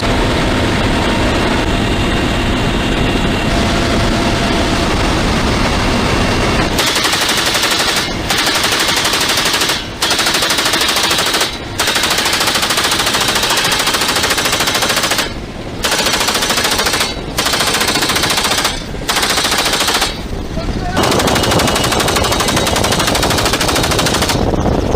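Helicopter rotor and engine running, then, about seven seconds in, a door-mounted machine gun firing long rapid bursts, about eight of them with short breaks between, until near the end.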